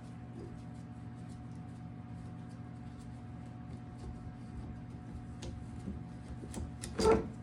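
Faint light clicks and ticks of hand tools working on a dirt bike's exhaust over a steady background hum, then one short, loud metallic clank near the end.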